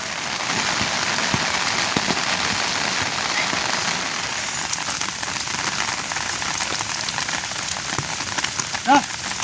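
Heavy rain falling steadily, a dense even hiss. Near the end a single short pitched call sounds briefly over it.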